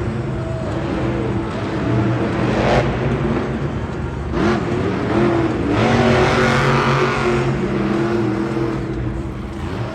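Monster truck engine revving hard and continuously, its pitch rising and falling as the throttle is worked, with a sharp swoop about halfway through.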